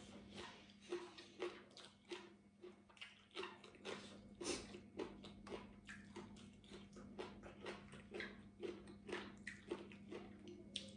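Close-up mouth sounds of someone chewing roasted fish with their mouth open, about two soft wet smacks and clicks a second. A faint steady hum runs underneath.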